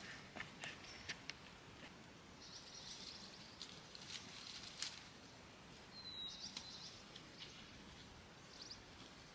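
Faint bird chirps and twittering over low outdoor background noise, with a few sharp clicks in the first second or so and a short falling whistle about six seconds in.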